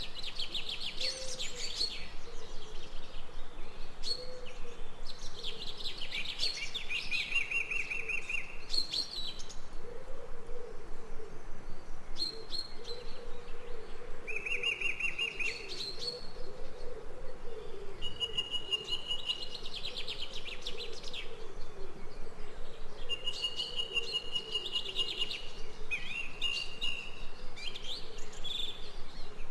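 Birds singing: short chirps and fast trills repeat every few seconds, over a low, wavering tone.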